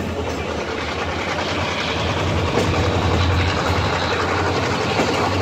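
Diesel locomotive running under throttle, a steady low engine drone over rail and wheel noise, growing a little louder toward the end.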